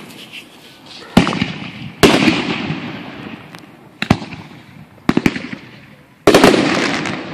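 Aerial fireworks shells bursting: five loud bangs a second or two apart, each a sharp crack followed by a long rolling echo, the last two coming as quick clusters of several cracks.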